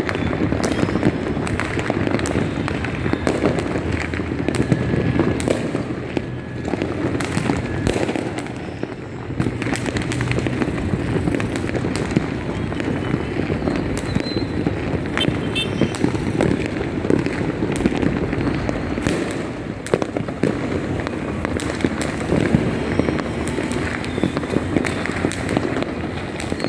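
A dense, unbroken barrage of fireworks and firecrackers going off on all sides, with many overlapping bangs, cracks and pops and no pause.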